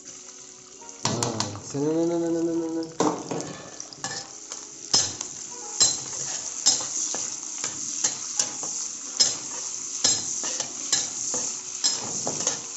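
Sliced onions, green chillies, ginger and garlic frying in hot oil in a kadai, sizzling more strongly from about four seconds in, while a metal spatula stirs them and clacks against the pan a little more than once a second. A short voice-like sound comes about a second in.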